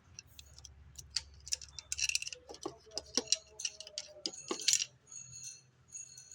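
Irregular sharp clicks and light metallic clinks, several to a second, some leaving a short ringing tone in the second half, over a faint low hum.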